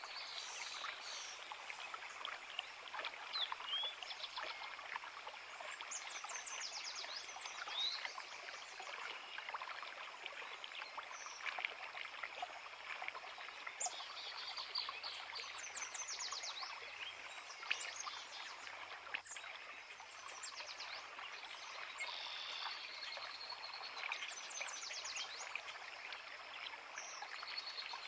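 A creek flowing steadily over rocks, with birds singing over it: quick high trilling phrases that recur every few seconds, plus scattered short chirps.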